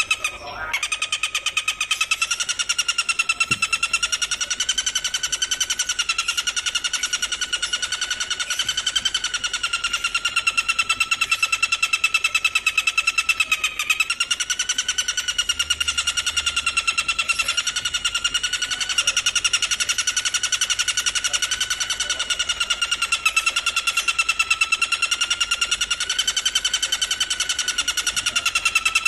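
An insect's continuous high-pitched trill, a very fast, even pulsing on one steady pitch that wavers slightly every few seconds, resuming after a brief break just under a second in.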